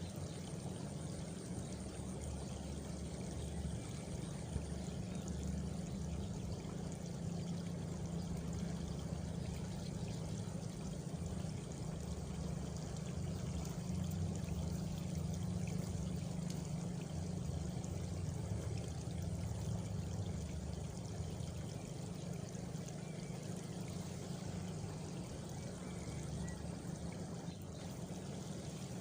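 Steady flowing water, an even unbroken rush heaviest at the low end. A faint thin high trill, like a cricket, sits over it for the first few seconds.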